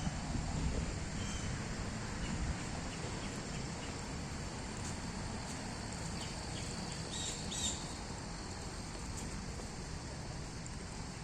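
Woodland ambience: a few short bird chirps about seven seconds in, over a steady high insect hum and a low rumble of wind noise.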